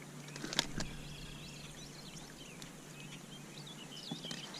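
Songbirds chirping, many short quick whistled notes, with a single sharp click about half a second in.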